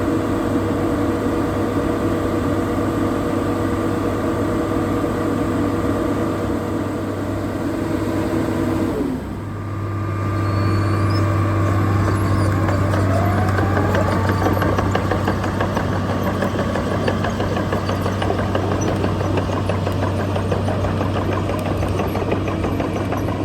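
Dynapac F141C asphalt paver's diesel engine running. About nine seconds in its speed drops, and it settles into a steady idle.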